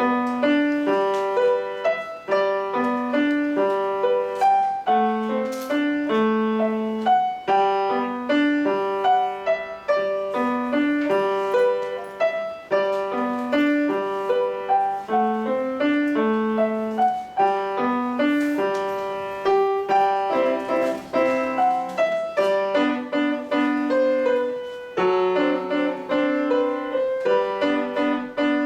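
Solo piano playing a barcarolle, with notes struck in an even, rocking pattern throughout.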